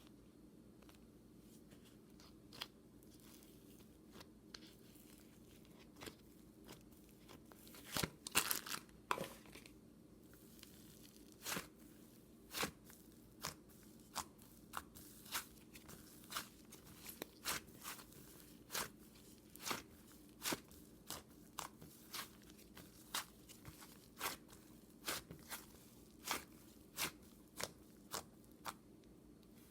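A series of short, sharp clicks at irregular intervals, about one a second, with a brief cluster of several a third of the way in, over a faint steady hum.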